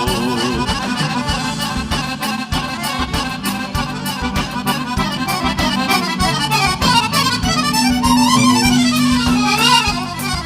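Gaúcho dance music played live: a button or piano accordion leads with fast runs that climb and fall, over a steady, quick beat from the rest of the band.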